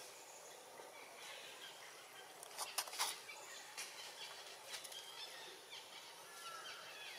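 Faint outdoor ambience with birds chirping now and then, including a short falling two-note call near the end. A quick cluster of sharp clicks stands out about two and a half to three seconds in.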